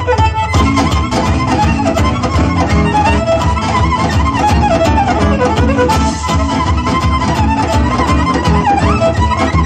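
Live gypsy-style music: a violin plays a fast, darting melody over a steady low rhythm from the rest of the band.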